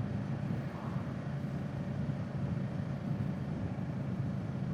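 Kawasaki Z650's parallel-twin engine running steadily at low road speed, a constant low drone with road and wind noise.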